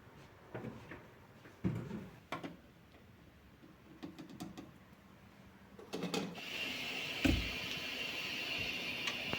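Kitchen things being handled: light knocks and clatters, then a steady hiss that starts about six seconds in, with one dull thump shortly after.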